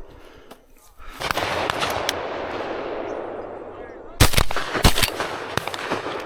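Two shotgun shots about half a second apart, the loudest sounds here, with fainter shots following near the end. Before them, a rushing noise swells about a second in and slowly fades.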